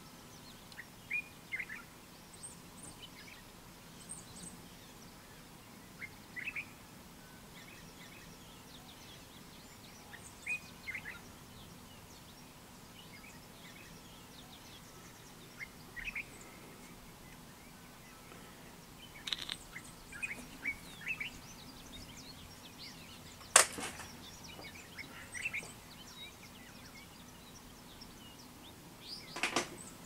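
Dawn birdsong: scattered short bird chirps and calls over a faint steady background. A single sharp click about three-quarters of the way through is the loudest sound, with a few more sharp clicks near the end.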